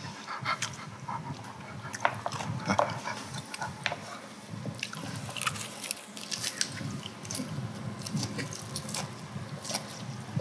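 Close-up chewing and crunching of lettuce-wrapped braised pig's feet, with many small wet clicks and crackles. A pet dog beside the table makes low whining sounds.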